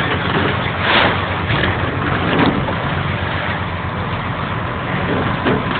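Ferry's engine running with a steady low drone, under a constant rushing noise that surges briefly now and then.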